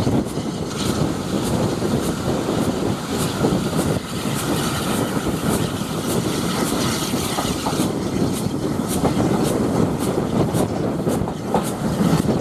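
Moving steam-hauled passenger train heard from a carriage window: a steady rumble of wheels on the track mixed with rushing wind, with a regular light clicking about twice a second.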